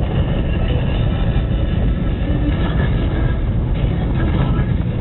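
Steady low rumble of a car being driven, heard from inside the cabin: engine and tyre noise on the road, with no sudden events.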